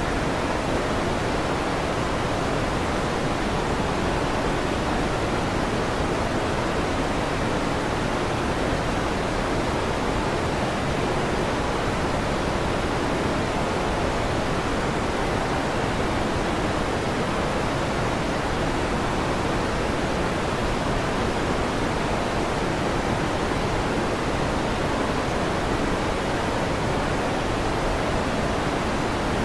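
Electric fan running, a steady, even noise with no changes and no thunder.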